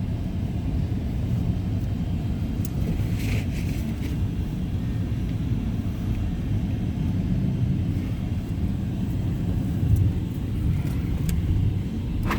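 Steady low rumble of a car driving, heard from inside, with a few faint clicks.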